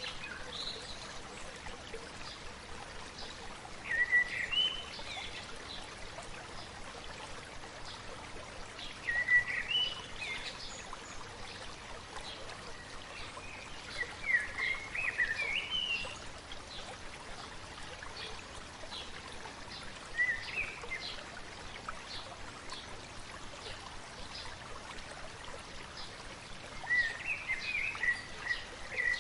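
A stream flowing steadily, with a songbird singing short phrases of rising whistled notes about every five seconds.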